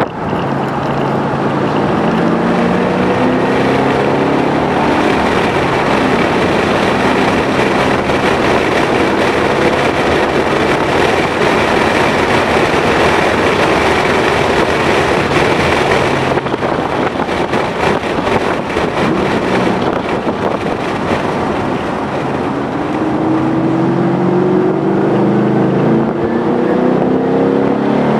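2011 Ford Mustang GT's 5.0-litre V8 running hard while lapping a race track, its pitch climbing as the car accelerates, easing around the middle and climbing strongly again near the end. Wind noise on the microphone throughout.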